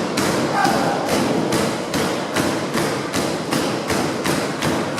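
Wrestling arena crowd pounding out a fast, steady rhythm of thuds, about three a second, over general crowd noise.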